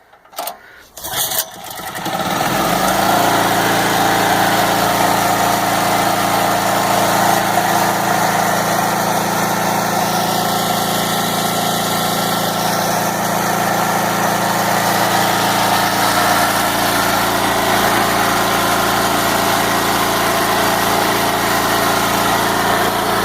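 Champion portable generator's small single-cylinder engine, converted to run on propane, starting: a few short irregular sounds, then it catches about two seconds in and settles into steady, even running with no load on it.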